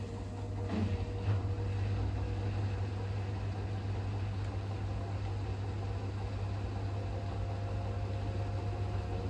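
Hoover H-WASH 500 washing machine running late in a cotton 60 cycle: a steady low hum of one constant pitch, with a couple of soft knocks about a second in.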